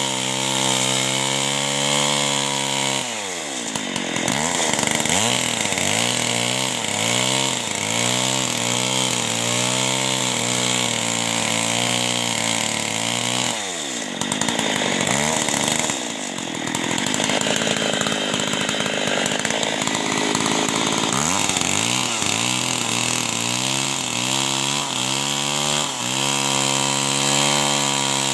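Two-stroke chainsaw running at high revs and cutting wood. It holds a steady pitch for about three seconds, then its speed rises and falls over and over as the chain bites into the log, with a smoother stretch in the middle.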